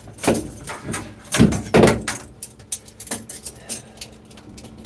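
A handful of knocks and rattles from hard objects being handled, the two loudest about one and a half and two seconds in, then lighter clicks.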